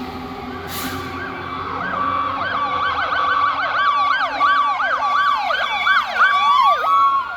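Electronic sirens of fire apparatus on an emergency run, overlapping: a fast yelp starting about two seconds in, over a steady siren tone, with a slower rising wail beginning near the end. A brief hiss about a second in.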